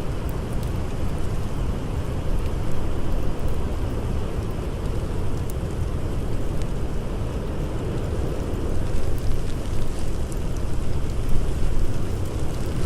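Blizzard wind howling in a steady, dense rush, strongest in the low rumble and swelling a little near the end, with scattered faint crackles from a campfire.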